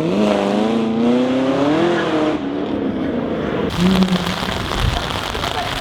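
A car engine revving: its pitch dips, then climbs and wavers for about two seconds before cutting off abruptly. A steady noisy hiss follows.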